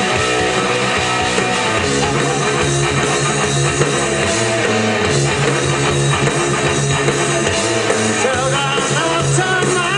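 Live rock band playing: distorted electric guitar, bass and drum kit, with a sung vocal line coming in near the end.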